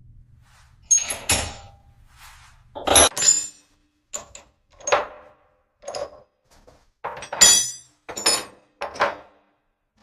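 A run of heavy metal clanks and knocks at uneven intervals, about one or two a second, some ringing briefly.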